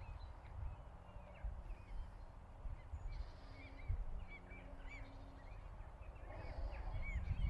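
Birds calling: many short, faint chirps repeating throughout and getting busier near the end, over a low rumbling noise.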